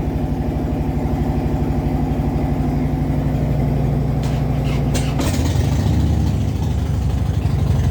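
Harley-Davidson V-twin motorcycle engine idling with a steady, rapid pulse. There are a few sharp clicks about four to five seconds in, and then the engine note changes and settles into a different, lower rhythm.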